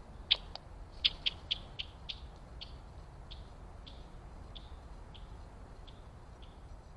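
A bird giving a series of short, sharp chip notes, several in quick succession at first, then slowing and growing fainter.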